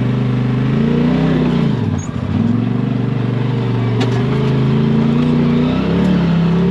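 Side-by-side off-road vehicle engine running under throttle, its pitch dipping and climbing back about one to two seconds in, then holding fairly steady.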